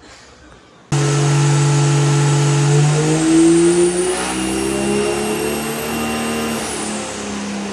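Third-generation Cummins diesel truck engine, built to around 900 hp, pulling under load on a chassis dyno: it cuts in about a second in and its pitch climbs slowly as the revs rise, with a faint rising turbo whistle above it.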